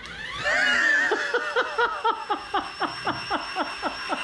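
Handheld dishwasher's motor starting up. Its whine rises over about the first second, then settles into a steady high whine with a rhythmic pulse about four times a second as it spins the plate.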